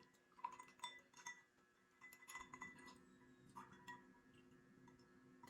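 Several light, faint clinks of glassware, spread unevenly through the moment, each ringing briefly, as drinks are handled and poured.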